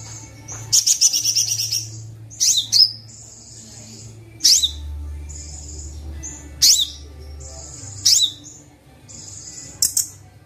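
Recorded songbird calls from a sunbird training track: high, fast trills and buzzy notes alternating with sharp downward-sweeping chirps roughly every two seconds, over a low steady hum.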